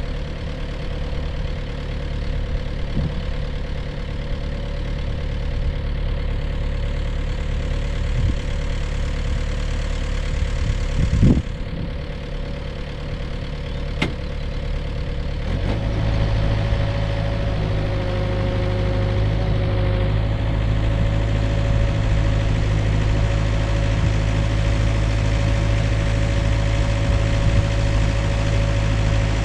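Komatsu mini excavator's diesel engine running steadily, with a brief knock about eleven seconds in. About halfway through the engine note steps up, a steady whine comes in, and it runs a little louder from there on.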